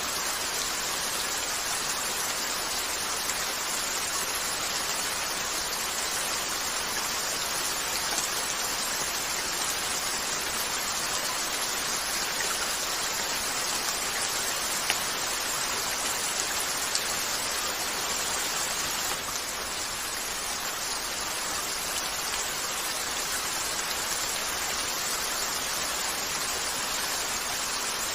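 Steady rain falling on a window, an even hiss throughout, with a few faint sharp ticks here and there.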